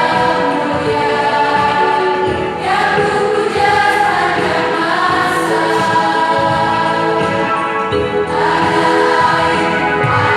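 A choir singing held chords, moving to a new phrase about two and a half seconds in and again about eight seconds in.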